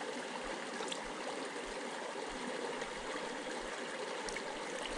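Small creek flowing: a steady rush of running water.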